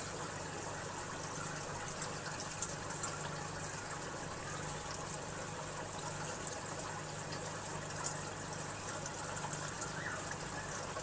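Steady running, trickling water with a low, even pump hum underneath.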